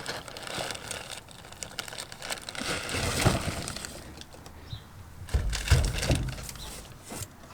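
Suspension parts being handled out of their packaging: irregular rustling and clicks, with a few heavier thuds about two-thirds of the way through.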